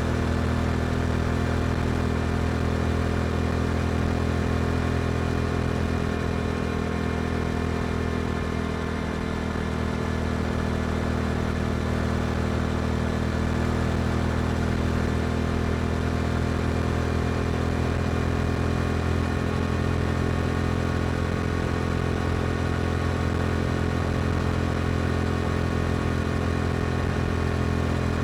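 Yamaha R7 motorcycle with an Akrapovic exhaust, its engine running at a steady cruising speed with a near-constant pitch, dipping slightly for a moment about a third of the way in.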